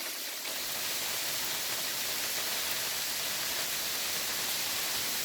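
Steady hiss of hail and rain falling outdoors, an even wash of noise with no single impacts standing out.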